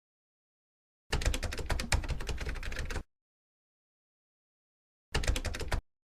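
Two bursts of rapid clicking clatter, the first about two seconds long, the second short and near the end, each starting and stopping abruptly.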